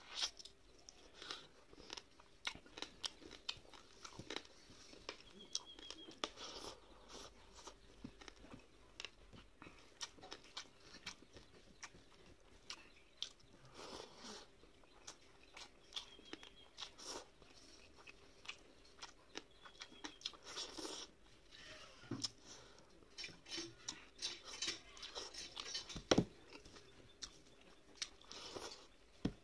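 Close-up chewing and wet mouth smacking of rice with curry and omelet eaten by hand, a steady run of irregular soft clicks. One louder knock comes near the end.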